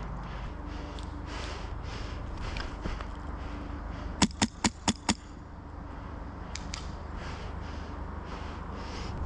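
Five quick semi-auto shots from an HPA airsoft rifle, sharp snapping cracks within about a second, about four seconds in. Movement and footsteps rustle underneath.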